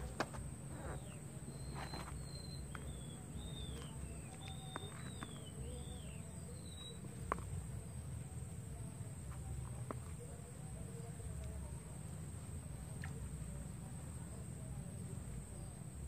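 Outdoor ambience with a bird singing a string of short, falling whistled notes for a few seconds in the first half, over a steady high-pitched tone and a low rumble, with a few sharp clicks.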